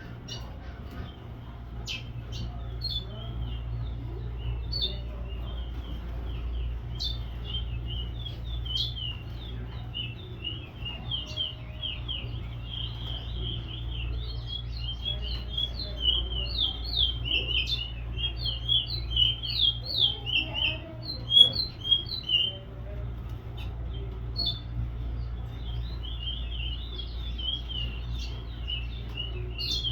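Several small birds chirping: many quick, high chirps that become busier and louder about halfway through, over a steady low hum.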